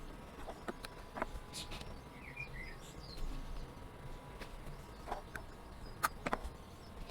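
Nib pen scratching on paper in short separate strokes, the sharpest a little after six seconds in, with faint bird chirps in the background.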